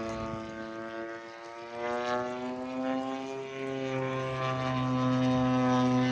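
Radio-controlled model airplane in flight, its engine and propeller giving a steady pitched drone. The drone fades a little about a second in, then rises in pitch and grows louder toward the end.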